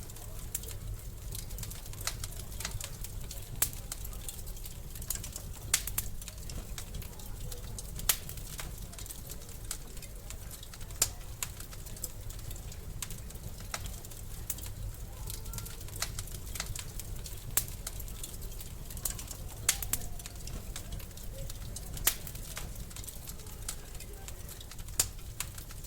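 Wood fire crackling in a fireplace: sharp pops every two or three seconds and smaller ticks between them, over a steady low rumble.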